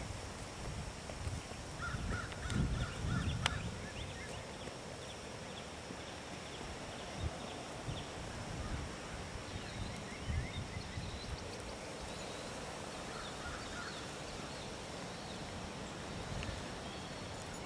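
Birds calling in short rapid runs of notes, heard a few times, over a low rumble.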